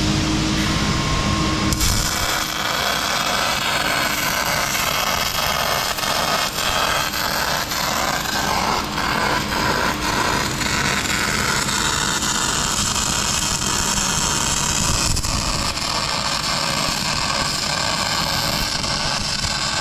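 A power tool working metal in a fabrication shop during the building of a boat fuel tank: a loud, dense noise with rapid clicking that starts suddenly about two seconds in and keeps on.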